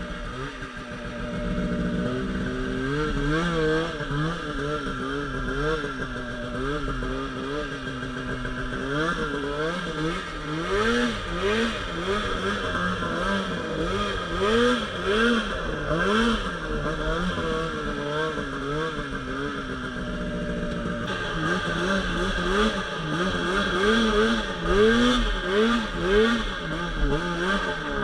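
Polaris RMK Pro 800 snowmobile's two-stroke twin engine revving up and down over and over while riding through deep powder. Its pitch rises and falls roughly once a second, with a couple of steadier stretches along the way.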